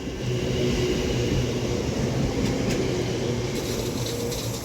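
A double Class 730 electric multiple unit pulling away from the platform: a steady rumble with an even motor hum and a faint higher whine.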